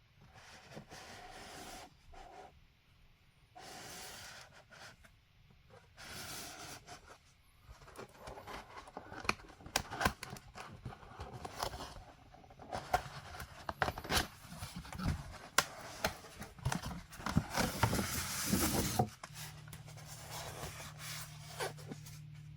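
Packaging being handled and opened by hand: soft intermittent hissing at first, then a busy run of rustling, scraping and sharp clicks and knocks. A low steady hum comes in near the end.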